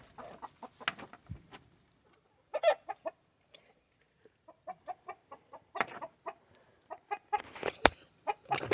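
Backyard chickens clucking in short, scattered calls, with a single sharp click near the end.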